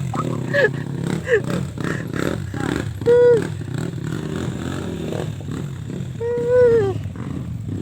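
Off-road motorcycle engines running in the background, with several short pitched calls that rise and fall over them; the two loudest come about three seconds in and near the end.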